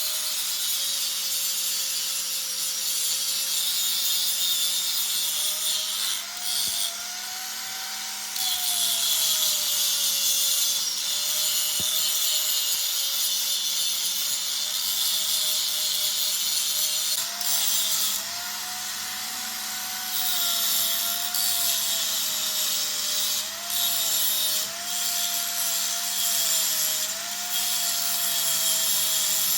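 An electric power tool grinding or cutting metal: a steady harsh hiss over a motor whine that wavers up and down in pitch, with the hiss easing off briefly several times.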